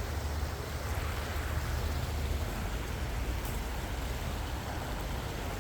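Steady rushing of shallow stream water, with a low rumble underneath that eases a little after about two and a half seconds.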